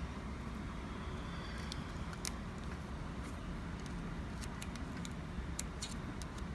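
Short, sharp, irregular clicks and scrapes of a small metal pick prying at a torn rubber crankshaft oil seal in an engine housing, over a steady low rumble.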